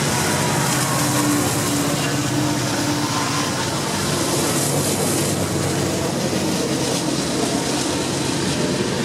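Freight train running past with steady, continuous noise, and a faint steady tone for a couple of seconds early on.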